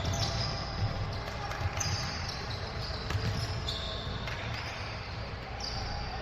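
Basketball game on an indoor court: a ball bouncing on the hardwood floor amid repeated short, high sneaker squeaks.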